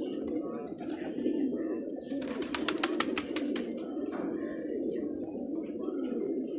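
Domestic pigeons cooing together, a dense, steady low cooing from many birds, with higher chirps mixed in. About two seconds in comes a quick run of sharp clicks lasting under two seconds.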